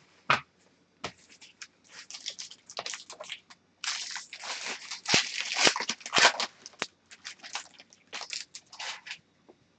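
Hockey trading cards and their plastic packaging being handled and flipped through: an uneven run of rustles, crinkles and small clicks, busiest in the middle.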